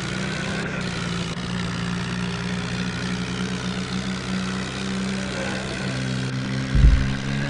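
HMT tractor's diesel engine running steadily. There is a heavy low thump near the end.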